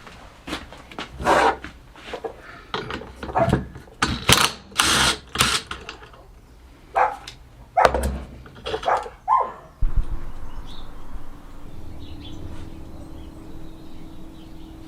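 Workbench handling noise while a Smiths heater fan motor is taken apart: a run of short, uneven knocks, scrapes and clinks of tools and metal parts. About two-thirds of the way in these give way to a steady low hum.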